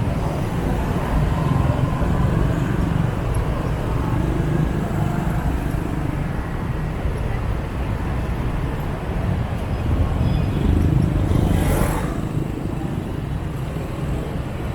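Motorbike ride through city street traffic: a steady low rumble of scooter engines and road noise. A short, sharp hiss cuts through about three quarters of the way in.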